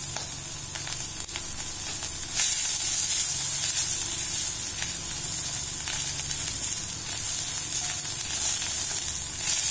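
Chopped fenugreek (methi) leaves sautéing in oil with cumin seeds in a stainless-steel kadai, stirred with a silicone spatula. A steady sizzle with a few brief crackles.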